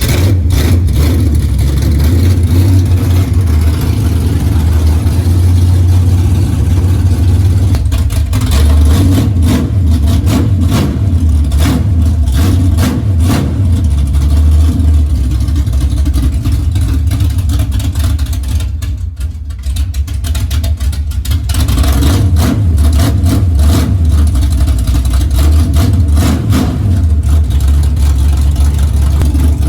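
Chrysler 440 big-block V8 in a 1973 Dodge Challenger drag car catching at the start and running loud and rough, just rebuilt with new cylinder heads. It drops back briefly about two-thirds of the way through, then picks up again.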